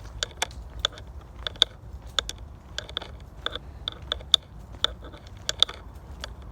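Footsteps crunching on a dirt forest trail, sharp uneven crunches about two or three a second, over a low steady rumble.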